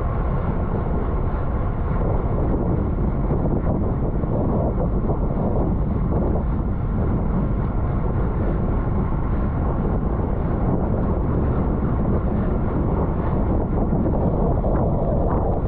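Steady wind rush on the microphone of a camera riding on a road bike at racing speed.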